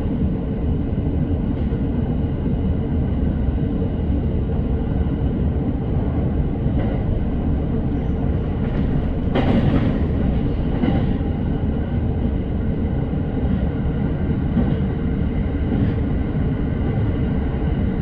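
Electric commuter train running at speed, heard from inside the car: a steady low rumble of wheels on rail with a faint steady hum, and a brief louder burst about halfway through.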